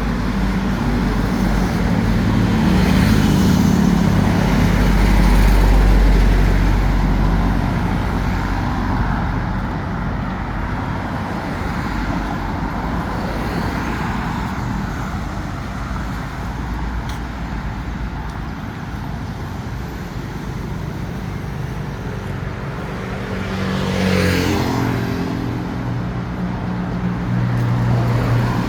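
Street traffic going past: motor vehicle engines and tyre noise, with one vehicle passing close a few seconds in and another a few seconds before the end.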